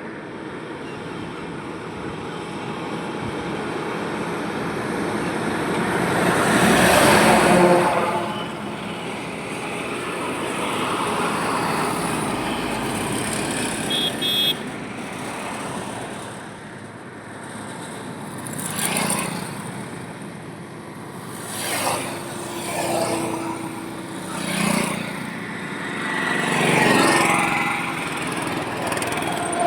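Road traffic on an Indian highway: a steady wash of tyre and engine noise with vehicles passing one after another, the loudest pass about a quarter of the way in and a run of closer passes in the second half. A brief horn toot sounds about halfway through.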